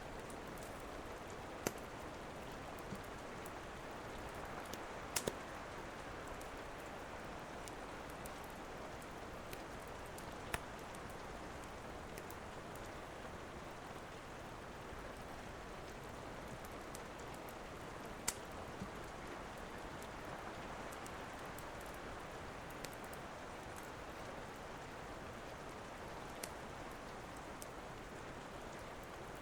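Steady rain with the occasional sharp pop of a crackling wood fire, a handful of pops scattered through it, a double pop about five seconds in.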